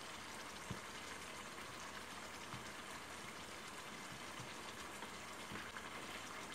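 Faint, steady sizzling of chicken cooking in ghee in a pot, with a few soft ticks spread through it.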